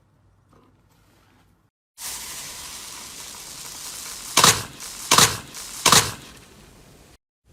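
Slime being played with: a steady crackling, crinkly noise that starts suddenly, with three loud sharp crunches about two-thirds of a second apart in the middle.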